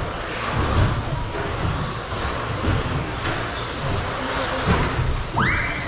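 RC stadium trucks racing on a dirt track: a steady mix of motor whine and irregular low thuds. Near the end one motor whines up quickly in pitch and holds.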